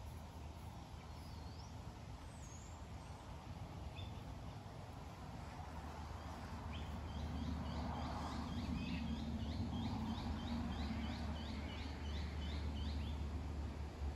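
Wild birds calling: two brief high whistles, then from about seven seconds in a bird repeats a short note two or three times a second for some six seconds. A steady low rumble lies underneath.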